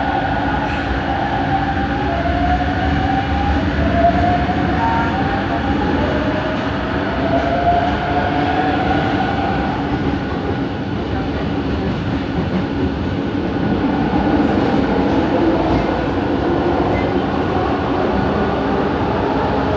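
Bombardier Innovia ART 200 train running, with its linear induction motor drive whining and rising in pitch in several successive steps over the first half, then holding steady, over a constant running rumble.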